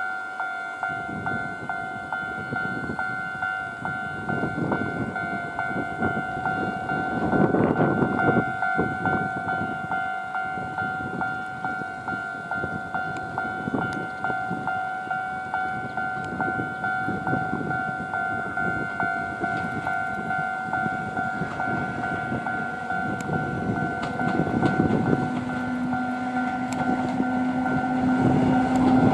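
Electric locomotive hauling a train of blue passenger coaches past, its wheels rumbling and clattering over the rails, loudest about seven seconds in. A railway level-crossing alarm rings on in steady repeated pulses the whole time the train passes.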